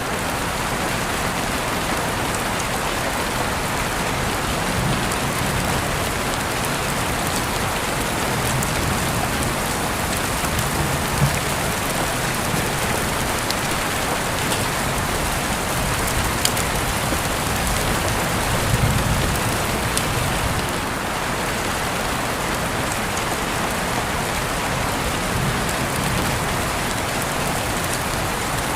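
Steady rain falling, an even hiss with scattered individual drop ticks and a little low rumble now and then.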